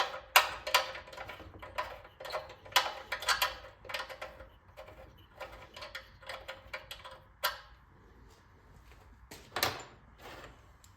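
Irregular clicking and clinking of hand tools and metal parts being handled during a small engine teardown. The clicks come thick and fast for the first few seconds, then thin out to a few sharper knocks.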